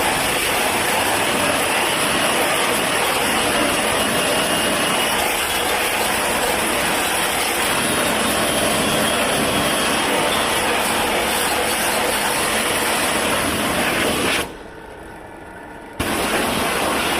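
Steady loud rushing hiss of a high-pressure jet. It cuts out for about a second and a half near the end, then starts again.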